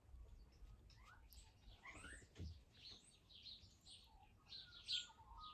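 Faint birds chirping, with short high calls throughout that come thicker in the second half.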